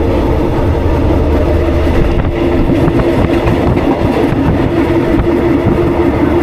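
Passenger train running along the track, heard from inside the carriage: a steady rumble of wheels and carriage, with a steady hum that comes in about halfway through.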